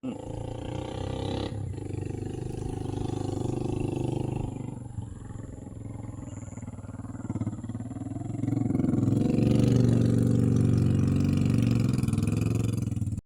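A motor vehicle engine running close by, growing louder about eight seconds in, with its pitch bending as it passes.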